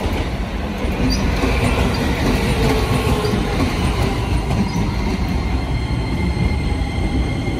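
Keisei commuter trains moving through a station: loud steady wheel and rail rumble that rises suddenly at the start, with brief high-pitched wheel squeals through the first few seconds. A steady high whine joins from about five seconds in as the train at the platform pulls away.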